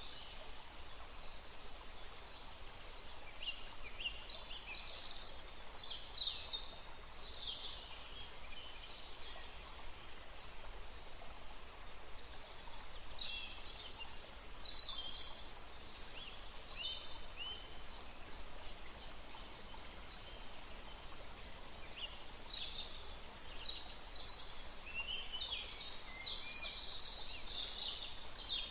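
Woodland ambience: small birds calling and chirping in several bouts of quick, high notes over a steady background hiss.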